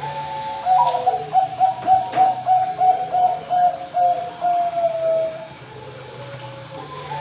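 Zebra dove (perkutut, Bangkok strain) singing one full cooing phrase: an opening note, then a run of quick rhythmic coos and a long drawn-out final coo. The next phrase starts near the end.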